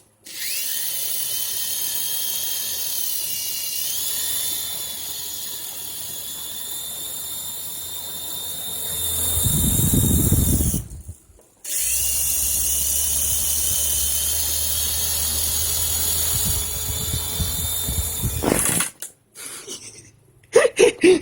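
Toy remote-control helicopter's small electric rotor motors running with a high, steady whine that rises in pitch as they spin up. The whine cuts out after about eleven seconds, then starts again and runs for about seven more. A louder low rumble comes just before the first cut-out.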